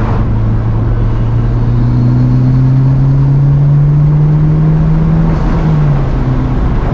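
Mitsubishi Lancer Evolution IX's turbocharged four-cylinder engine with the muffler deleted, accelerating hard: the exhaust note climbs steadily in pitch for about four seconds as it opens up, then drops off about six seconds in.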